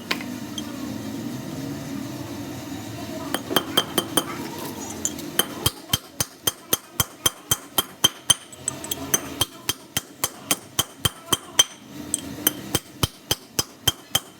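Light metal-on-metal tapping in a steady rhythm, about three sharp clinks a second, starting with a short run of taps about three seconds in and running on steadily from about five seconds in, with a brief pause near twelve seconds.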